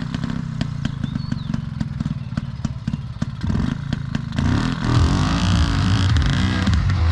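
Enduro motorcycle engine running, with rapid clattering strokes for the first few seconds, then revving up and down from about halfway through.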